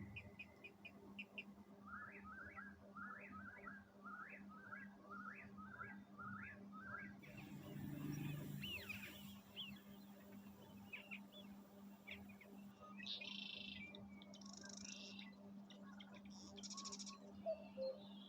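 Birds calling: a run of short, rising chirps repeated about ten times, then assorted chirps and higher buzzy calls, faint over a steady low hum.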